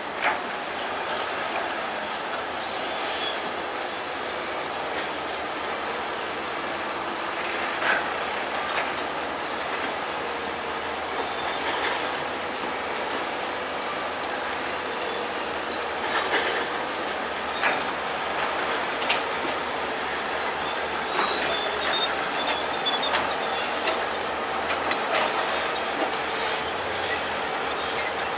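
Crawler bulldozer running, its steel tracks clanking and squealing as it works, with sharp metallic clanks now and then, more often in the second half.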